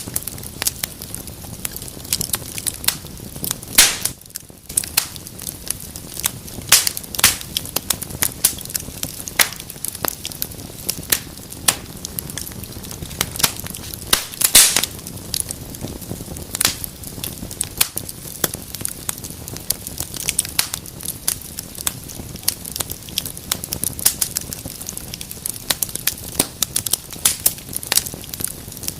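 Wood fire in a fireplace crackling, with frequent sharp pops over a low steady hiss; two louder snaps about four seconds in and about halfway through.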